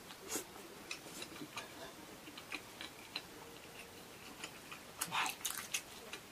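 Close-miked chewing of a thick pizza slice: scattered soft, wet mouth clicks and smacks, with a louder bite about half a second in and a short rustling burst about five seconds in.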